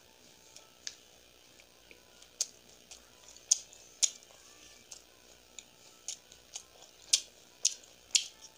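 Mouth sounds of eating: chewing with sharp, wet lip smacks and clicks at irregular intervals, a few louder ones in the middle and near the end.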